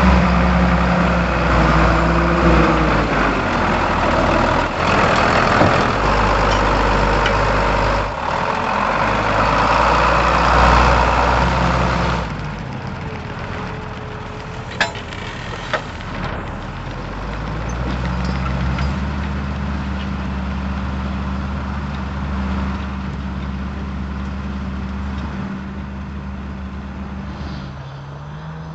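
Lamborghini R7 200 tractor's diesel engine running steadily while ploughing. It is loud at first, then drops suddenly in level about twelve seconds in, with two sharp clicks a few seconds later.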